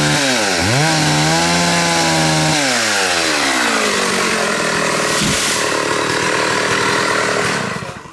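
Two-stroke chainsaw at high revs, dipping briefly about half a second in. From about three seconds in its pitch sags into a rougher, noisier sound as the chain bites into the trunk of a large khaya (xà cừ) tree, and it cuts off just before the end.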